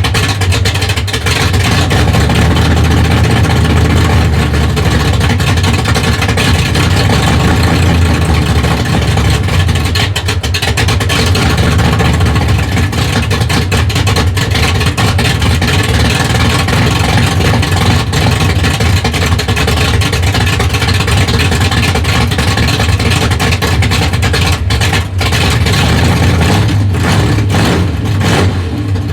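355 cubic-inch small-block Chevy V8 with a tunnel ram and fenderwell headers, running loud and steady at idle through its exhaust.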